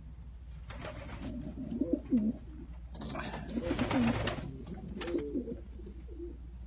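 Domestic pigeons cooing in a loft, in three low, wavering bouts, with a few short scuffling noises between them.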